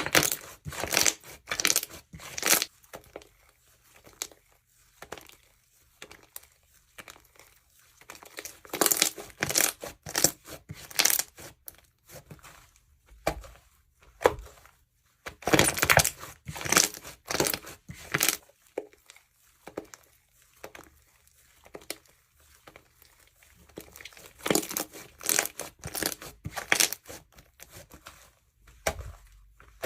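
Jewelry slime being squeezed and pressed by hand, crackling and crunching in clusters of a few seconds with short quiet pauses between.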